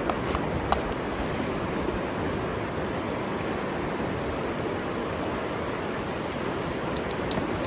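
Steady rushing of a flowing river, with a few sharp pops near the start and again near the end.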